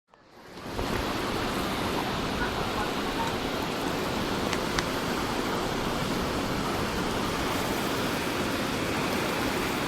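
Heavy rain and wind of a summer storm, a steady rushing hiss that fades in over the first second, with a couple of faint ticks about halfway.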